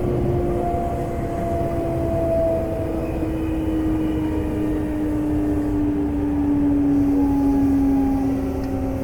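Semboku Rapid Railway 5000 series train's Hitachi GTO VVVF inverter whine falling slowly in pitch as the train brakes into a station, heard inside the car over steady wheel and track rumble.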